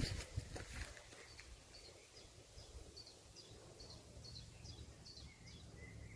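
Faint bird chirping: a short high call repeated about twice a second, with a few lower notes near the end. A brief rustle comes at the start.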